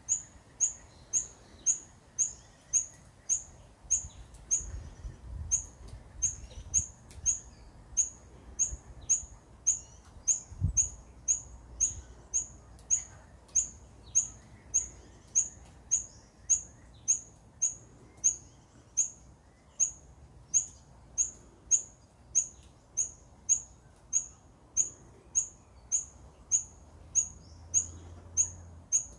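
Rufous fantail calling a short, high chip over and over, about two a second, at a very even pace.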